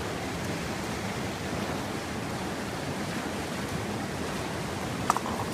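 Creek water rushing steadily over rocks. A single sharp click with a brief ring comes near the end.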